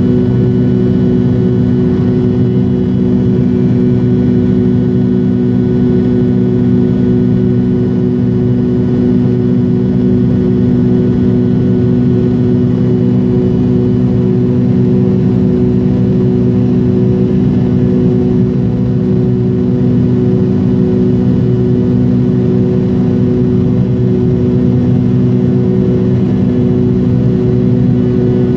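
Steady cabin drone of an MD-80 airliner in flight, its rear-mounted Pratt & Whitney JT8D turbofans running at constant power, with several low hum tones over a rushing noise.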